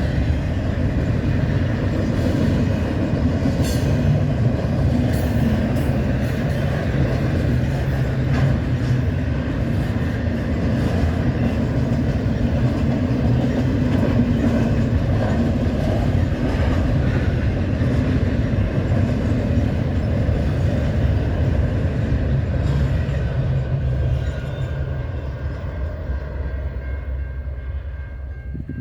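Intermodal freight cars rolling past, a steady low rumble with wheel clatter on the rails, fading over the last few seconds as the end of the train goes by.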